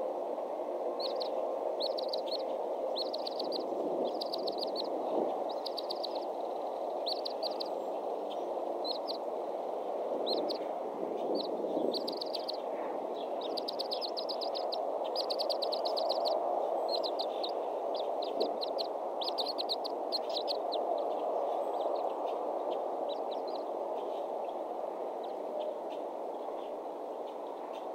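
A bird's short, rapid chirping trills, repeating about once a second and dying away near the end, over a steady low rushing noise.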